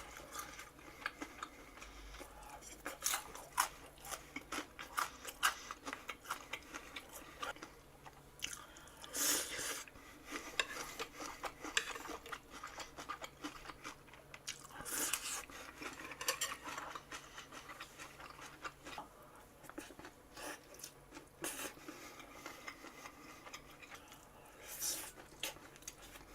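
A person chewing and biting crunchy fried squid close to the microphone: a run of small crackling crunches and wet chewing, with a few louder bites about nine, fifteen and twenty-five seconds in.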